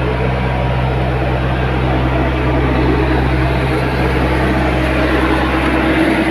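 Tata Hitachi EX70 Prime excavator's diesel engine running steadily.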